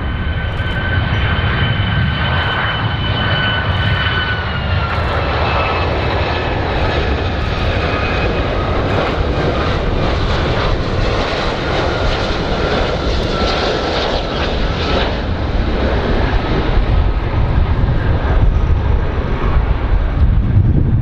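Large airplane's engines running loud and steady: a deep rumble under a roar, with a high whine that drops slightly in pitch about four and a half seconds in.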